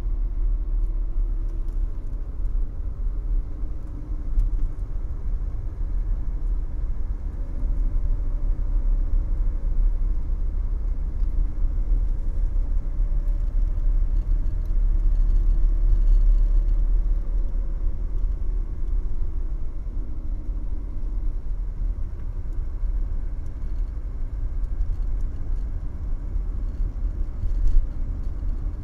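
Mercedes-Benz W123 300TD's naturally aspirated five-cylinder diesel engine and road noise heard from inside the cabin at low track speed: a steady low drone whose pitch rises and falls slightly. A brief knock sounds near the end.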